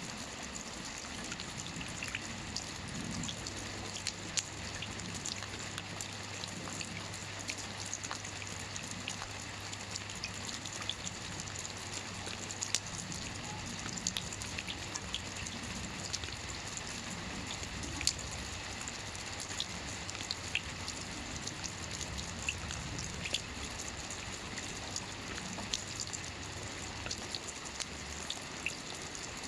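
Steady rain falling on a lake's surface, an even hiss with many individual drops ticking and pattering.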